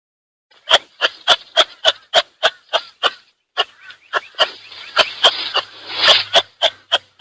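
A rapid run of short, sharp animal calls, about three a second, starting about half a second in, with a busier, noisier stretch near the end.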